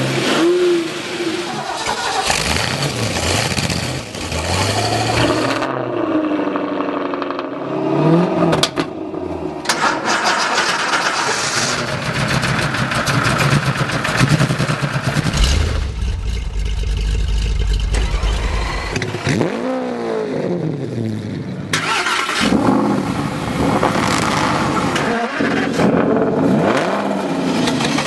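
Car engines revving, the pitch rising and falling again and again, with the sound changing abruptly several times from one engine or recording to another.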